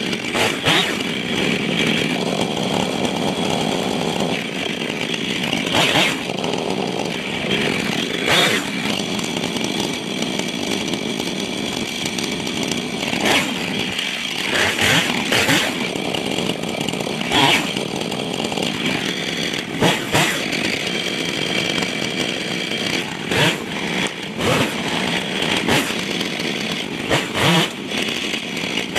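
Husqvarna chainsaw running steadily under load, cutting up a downed dead pine tree, with many short sharp cracks throughout.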